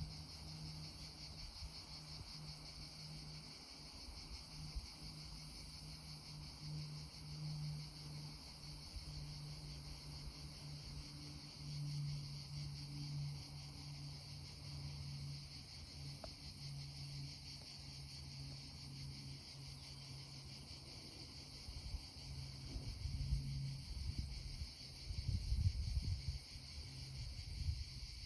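Insects chirring in a steady, high-pitched trill of rapid pulses, over a low steady hum. Low rumbles come and go in the last few seconds.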